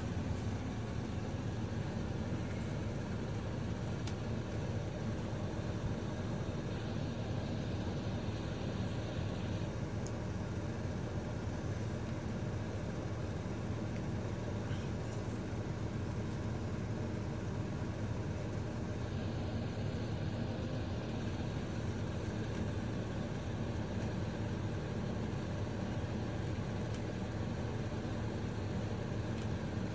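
A steady low rumble with no distinct events, joined twice by a few seconds of higher hiss.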